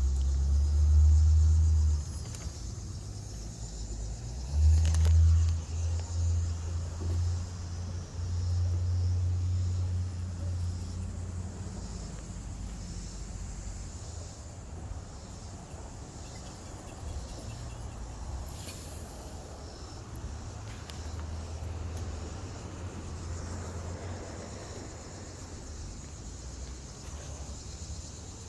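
Low, uneven rumble, strongest in the first couple of seconds and again from about five to eleven seconds in, then fading to a fainter rumble over a quiet outdoor background with a few small clicks.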